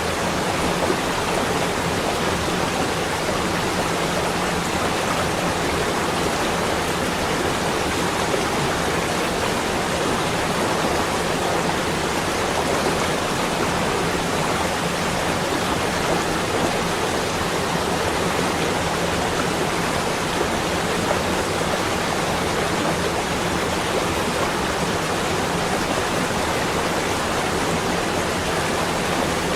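Snowfall ambience: a steady, even hiss with no distinct events.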